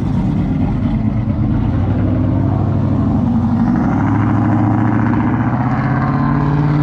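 Turbocharged GMC Sierra 2500HD pickup's engine running at low speed as the truck rolls along, its pitch creeping up slightly over the first few seconds, then holding steady.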